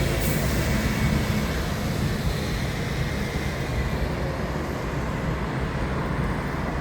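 Steady city street traffic noise, with a vehicle's low engine hum that fades out over the first second and a half.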